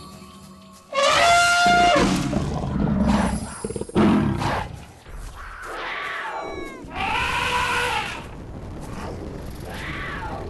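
Loud wild-animal roars and calls, several in a row, each bending up and then down in pitch, over background music.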